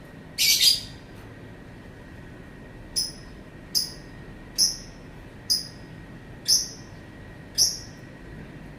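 Lovebird calling: one harsh, longer screech about half a second in, then six short, shrill chirps, each dropping in pitch, at roughly one a second.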